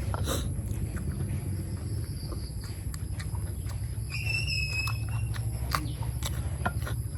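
Close-miked chewing of raw beef koi, with wet mouth clicks and smacks over a steady low rumble. A short whistled bird note sounds about four seconds in.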